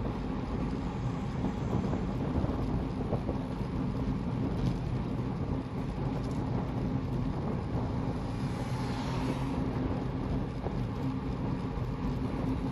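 Steady rumble of wind and road noise on a moving camera's microphone, with a faint steady hum underneath and a brief swell of hiss about nine seconds in.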